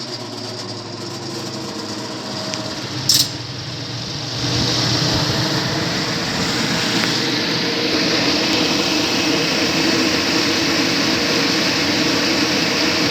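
Upblast exhaust fan system running on power through a newly fitted magnetic contactor: a steady mechanical hum, a single sharp click about three seconds in, then a second later the sound steps up to a louder, steady rush of the fan running.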